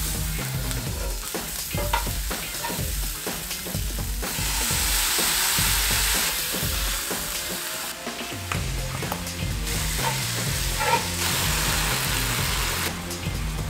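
Broccoli florets, scallions and dried chilies sizzling in hot oil in a cast-iron skillet as they are stir-fried, with a few sharp knocks of utensils on the pan. The sizzle grows louder about four seconds in.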